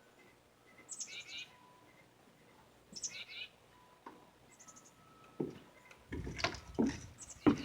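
A small bird calling: a short, high call that sweeps downward, heard about three times, roughly two seconds apart.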